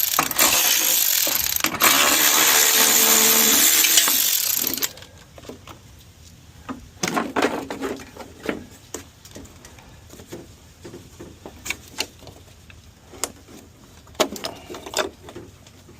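A cordless power drill or driver runs loudly for about five seconds, its whir shifting in pitch, then stops suddenly. After that come scattered light clicks and knocks of parts being handled.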